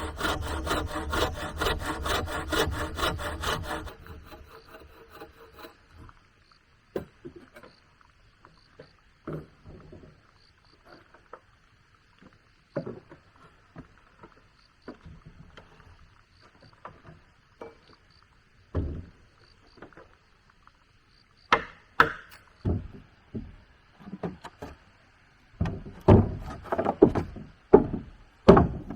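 Saw cutting wood in quick, even strokes that stop about four seconds in. Scattered wooden knocks and clatter follow, with a cluster of louder knocks near the end.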